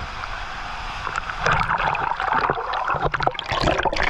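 Rushing, splashing water at a waterfall pool, a steady wash that turns louder and choppier with quick splashes and knocks about a second and a half in.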